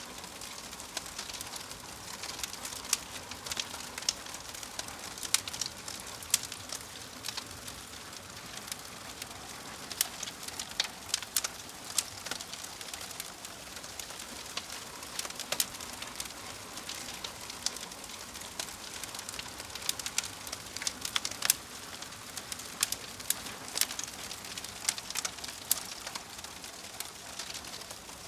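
Logs burning in a fireplace, crackling: frequent irregular sharp pops and snaps over a steady soft hiss.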